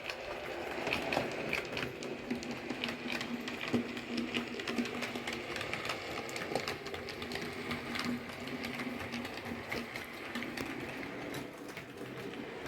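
DC OO gauge model train running: a steady small electric motor hum with many fast, irregular clicks of the wheels on the track.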